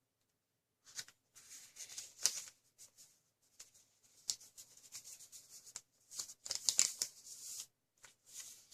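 A square sheet of origami paper being folded corner to corner into a triangle and creased flat: irregular bursts of paper rustling and crinkling, loudest around two seconds in and again around seven seconds.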